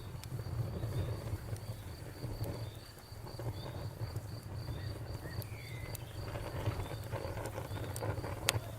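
Campfire crackling, with scattered sharp pops over a low steady rumble and one sharp pop near the end. Crickets chirp behind it in a steady pulsing rhythm of about four beats a second.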